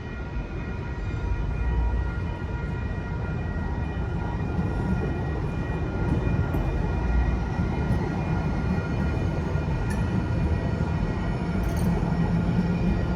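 San Diego MTS light-rail trolley rumbling steadily through a grade crossing, with the crossing signal's bells ringing as a steady set of tones.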